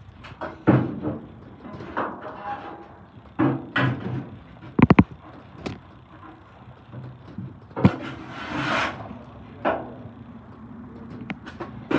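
Irregular metallic knocks and thuds from work inside a garbage truck's hopper behind the packer blade, with a longer scrape about eight seconds in.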